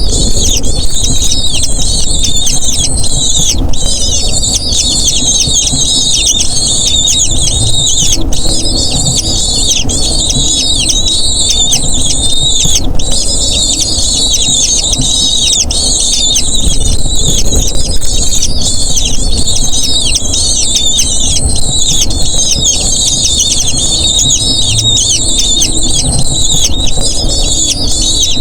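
Eagle chicks begging for food: a dense, continuous chatter of short, high-pitched falling squeals over a low rumble.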